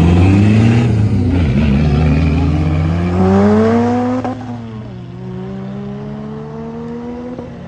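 Car engine accelerating hard, its pitch climbing steadily, then dropping sharply a little past four seconds in at a gear change before it pulls again, quieter and more slowly rising.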